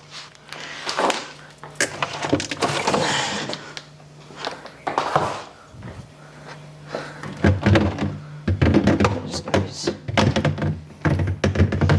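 Knocks, thunks and clatter of fridge shelves and bottles being shifted and set in place, with scraping and sliding in the first half and a quick run of knocks in the second half.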